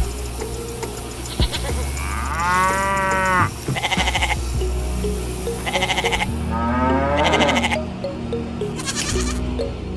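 Bleating animal calls, like a sheep's or goat's: two long wavering bleats and several short pulsed ones, over background music.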